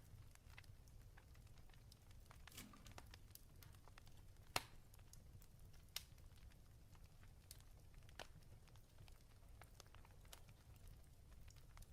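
Fire crackling in a fireplace: scattered small pops and snaps over a low steady rumble, with two sharper pops about four and a half and six seconds in.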